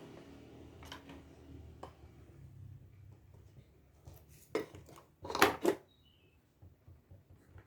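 A few short clattering knocks, like household objects being handled, the loudest a quick cluster about five and a half seconds in, over a faint low hum.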